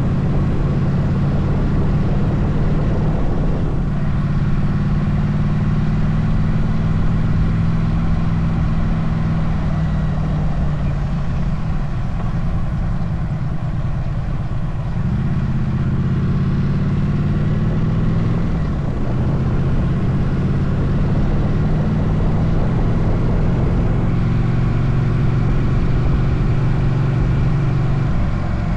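Motorcycle engine running on the move, its note falling and climbing with speed and gear changes, with steps near the start, the middle and about two-thirds of the way in. A steady rush of wind and road noise runs under it.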